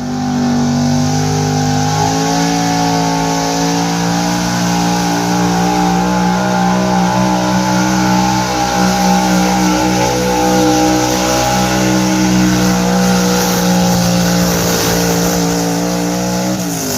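Gas-engined street pickup truck pulling a weighted sled at full throttle. Its engine climbs in revs over the first two seconds, holds high and steady under load, then drops away near the end as the pull finishes.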